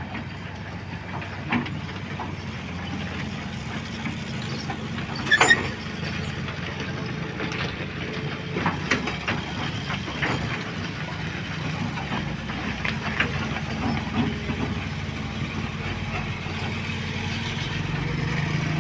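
Heavy engine running steadily, with scattered sharp knocks and clanks, the loudest a quick cluster about five seconds in.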